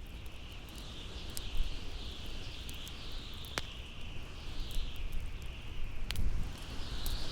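Bonfire crackling with scattered sharp pops over howling wind: a low rumble underneath and a high whistle that swells and fades.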